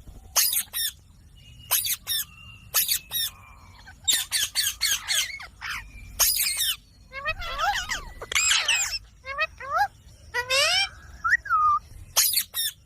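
Ringneck parrot screeching in short, sharp calls, singly and in quick runs of several, with a denser stretch of wavering, chattering calls in the middle.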